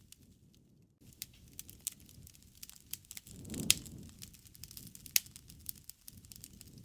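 Wood fire crackling, with sharp pops scattered irregularly. After a nearly quiet first second it picks up, with a brief low rush of flame and then a loud snap a little past the middle, and another loud snap around five seconds in.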